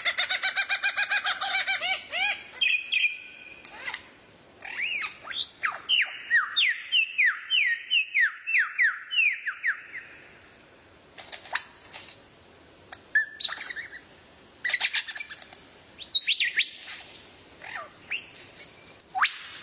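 Songbird song: fast runs of quick up-sweeping whistled notes, then a series of about a dozen rapid rising notes, then after a short pause scattered sharp chips and calls.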